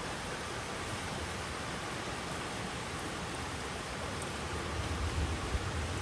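Steady hiss of falling rain with a few faint drop ticks. A low rumble swells in near the end.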